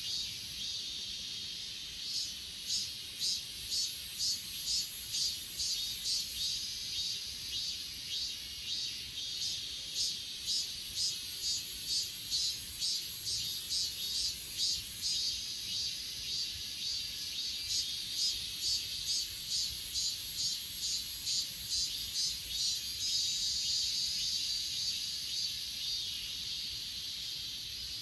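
Crickets and other grass insects chirping: a steady high trill with a regular pulsing chirp about two or three times a second.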